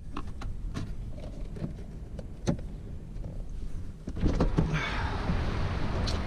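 A run of small sharp clicks from parts being handled and screwed together. About four seconds in, a steady rushing noise with a low hum comes on and keeps going.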